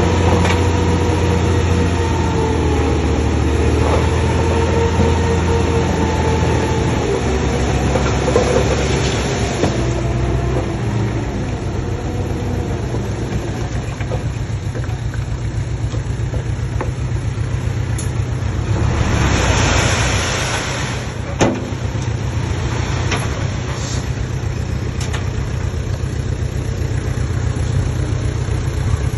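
Komatsu D20P bulldozer's diesel engine running steadily under work, with a wavering whine over it for the first ten seconds or so. About twenty seconds in there is a brief rush of noise, then a single sharp click.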